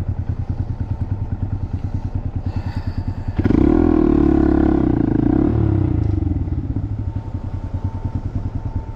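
Small Honda single-cylinder motorcycle engine running with an even, rapid pulse. About three and a half seconds in it gets louder and rises in pitch for about two seconds as the throttle is opened, then eases back to a steady run.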